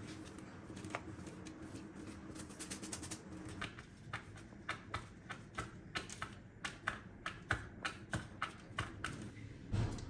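A run of quick, light clicks and taps, about two or three a second, over a faint steady hum, ending with a heavier dull thump.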